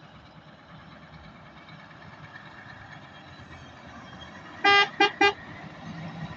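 Vehicle horn giving three quick toots about two-thirds of the way in, the first a little longer than the next two, over a background of idling engines.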